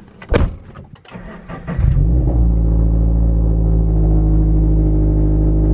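A few clicks and knocks, then about two seconds in a car engine starts and settles into a steady, even, low running note.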